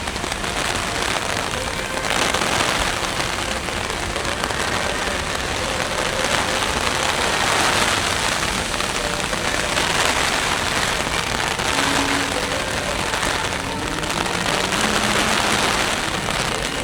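Heavy rain from a typhoon falling steadily, its hiss swelling and easing every couple of seconds.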